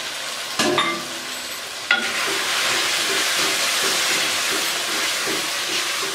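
Chicken masala with freshly added yogurt sizzling in a hot metal pot while a wooden spatula stirs and scrapes it, frying the yogurt down until its water dries off. Two sharp knocks come in the first two seconds, and after the second one the sizzling grows louder, with the spatula's strokes repeating about twice a second.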